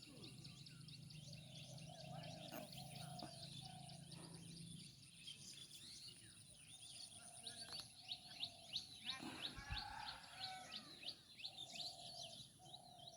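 Many birds chirping and calling faintly on all sides in a morning chorus: quick, overlapping chirps that grow busier and louder in the second half.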